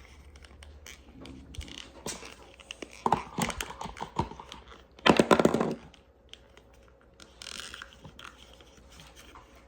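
Small clicks and rustles of Play-doh toys and containers being handled, with one louder crinkling rustle about five seconds in.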